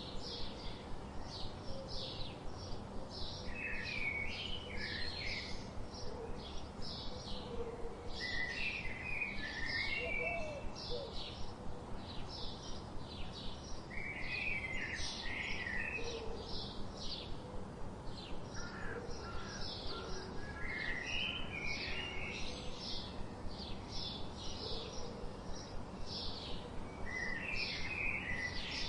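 Birds calling: a steady run of short, high chirps, about three or four a second, with a lower, warbled phrase repeated about every five or six seconds.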